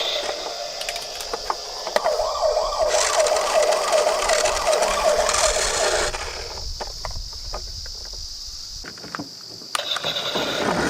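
A toy ambulance-style siren warbling rapidly for a few seconds, with a rushing hiss above it. It is followed by light scattered clicks and clacks of small toy vehicles.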